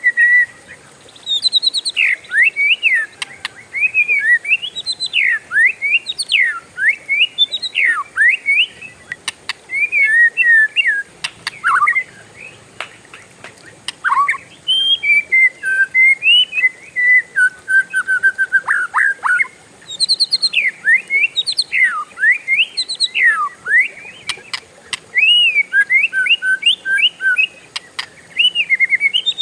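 Oriental magpie-robin (kacer) singing a long, varied song of rapid whistled notes that sweep up and down, with a few short pauses.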